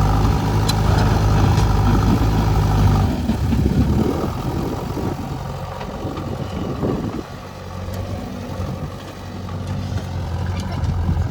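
Heavy diesel engine running loud for about three seconds, then dropping back to a lower, steady run.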